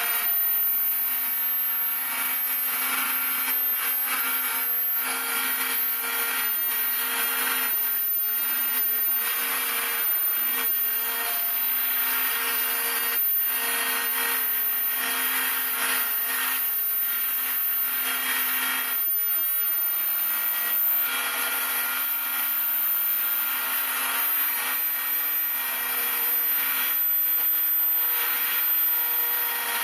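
Spindle of a homemade CNC router running steadily while its cutter mills model-aircraft wing ribs: a steady whine under a rasping cutting noise that grows and eases as the cut goes on.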